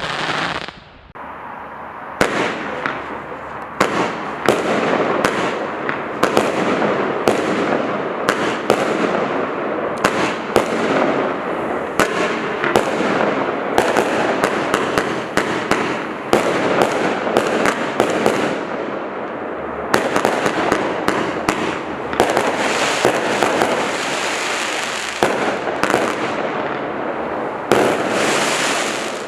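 Display firework cakes and barrages firing continuously: rapid sharp bangs, several a second, over an unbroken crackle.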